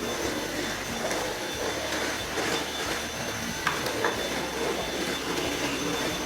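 Vacuum cleaner running steadily with a high whine, with a few short clicks about three and a half to four seconds in.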